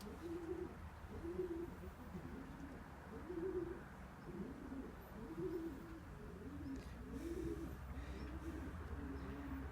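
Domestic pigeons cooing, a steady run of low coos one after another over a faint low hum.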